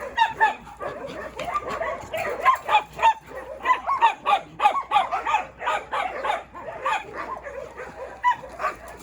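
A pack of dogs barking and yipping excitedly, many barks overlapping, busiest from about two seconds in; the dogs are worked up by treats being handed out.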